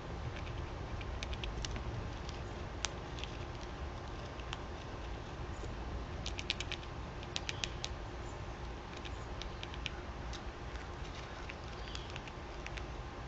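Birds and squirrels feeding: irregular sharp clicks and taps of feeding at scattered food, some in quick runs of four or five, over a steady low outdoor rumble.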